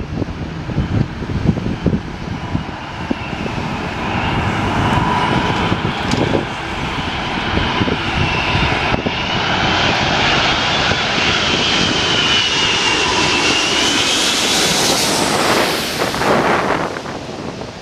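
Airliner passing close overhead: its engine noise builds with a whining tone, swells to a loud peak with a sweeping, phasing sound as it goes by, then drops away quickly near the end. Wind buffets the microphone at first.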